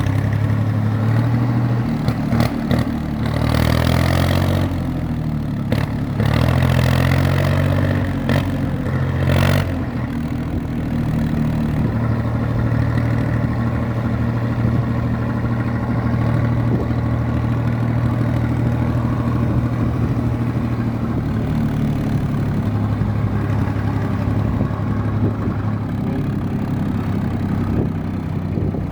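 IMT 549 tractor's diesel engine running, its pitch rising and falling several times in the first ten seconds as it revs between gear changes, then holding a steady speed.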